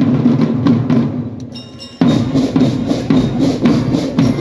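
Marching drum band playing: rhythmic drum strokes under a sustained melody, with a sudden change in the music about two seconds in.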